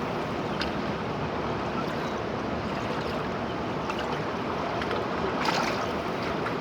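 Steady rushing of a large river, the Budhi Gandaki or Trishuli, with a short louder swell about five and a half seconds in.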